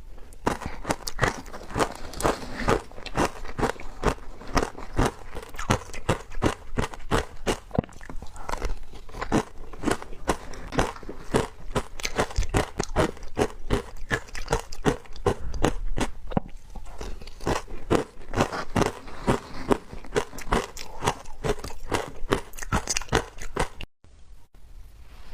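Close-up bites into wet frozen matcha ice, a dense run of crisp crunching and cracking that stops suddenly about a second before the end.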